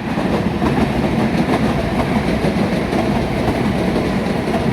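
Passenger train running: a steady, loud rumble of the carriage and wheels on the track.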